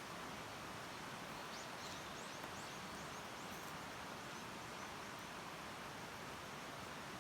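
A bird calls a quick run of about a dozen short, high notes that step down in pitch and fade out, over a steady faint outdoor hiss.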